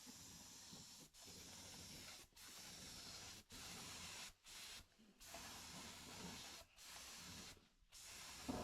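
Air-fed spray gun hissing faintly as it sprays primer onto a car body panel, in passes of about a second each separated by short breaks.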